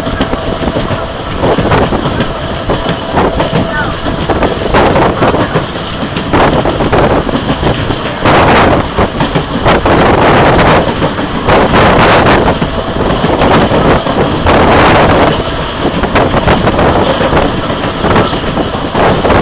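Passenger train running at speed, heard at the carriage window: a loud, steady rush of wheel and track noise with wind buffeting the microphone, in stronger gusts around the middle.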